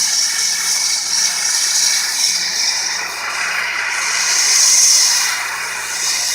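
Dustless blasting: a high-pressure jet of water and crushed glass hissing steadily against a truck's body as it strips paint and rust. The hiss swells louder about two thirds of the way in, over a faint steady engine hum from the blasting rig.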